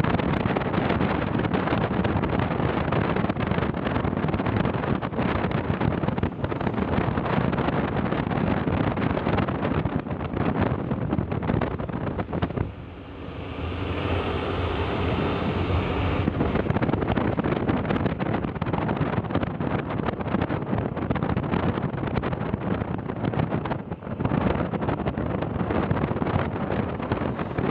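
Wind rushing over the microphone along with a vehicle's running noise while travelling on the road. About halfway through the rush briefly dips and an engine's pitched hum stands out for a few seconds before the wind noise returns.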